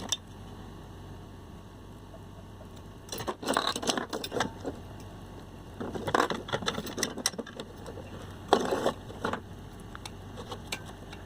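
Clicking and rattling of small parts as an overload protector and its wiring are fitted onto a refrigerator compressor by hand, in three short spells, over a steady low hum.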